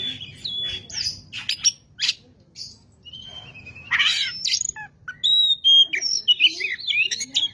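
Oriental magpie-robin (kacer) in full song: a fast, varied string of high whistled notes, short sliding phrases and sharp clicking calls.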